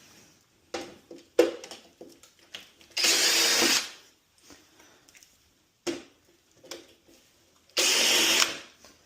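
Cordless drill-driver with a T15 Torx bit, set to reverse, running in two short bursts: about three seconds in and again near the end, backing out the oven door's screws. A few clicks and knocks fall between the bursts.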